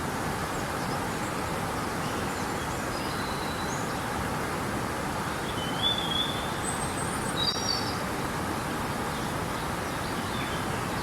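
River water running steadily, with birds chirping over it: a few short, high chirps, most of them in the middle of the stretch.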